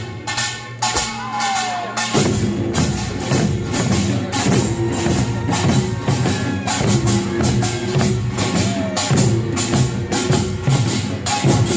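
Korean pungmul farmers' band playing: small kkwaenggwari gongs clanging in a fast, dense rhythm over janggu hourglass drums, buk barrel drums and the jing gong. The low drumming drops back for the first couple of seconds, then comes back in full about two seconds in.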